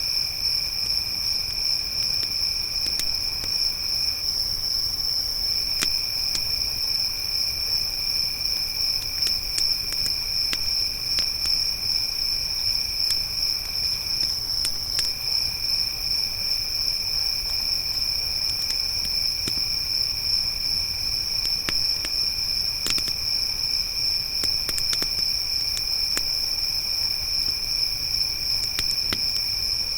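Crickets trilling in a steady high-pitched chorus, with a second, lower trill that breaks off briefly twice. Scattered sharp pops and crackles of a wood campfire sound over it.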